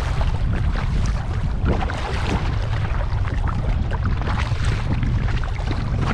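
Kayak paddle dipping and splashing in the water in irregular strokes, over a steady low rumble of wind on the microphone.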